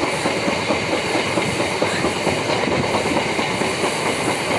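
MEMU electric passenger train running at speed, heard from the coach window: a steady rushing noise with constant wheel clatter on the rails.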